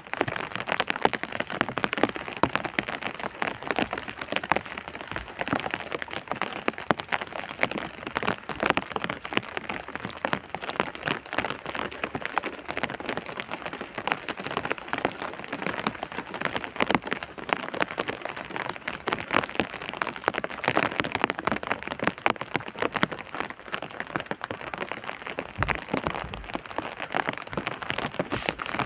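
Rain falling steadily: a dense, even patter of countless drops hitting a surface.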